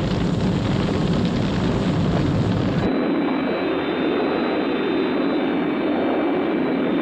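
A loud, dense roar that cuts off about three seconds in, giving way to the steady rushing whine of Thunderbird 1's jet engines in flight, with thin high tones over it.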